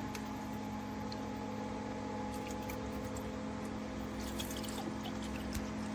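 Water being poured into the water tank of a small personal air cooler, trickling and dripping, over the steady hum of the unit's fan.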